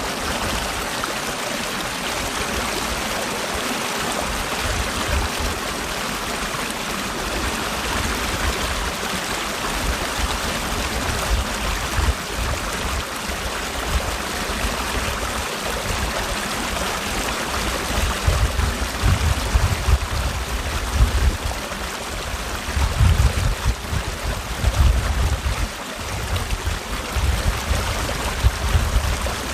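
Mountain valley stream rushing steadily over rocks, with irregular low rumbles coming and going in the second half.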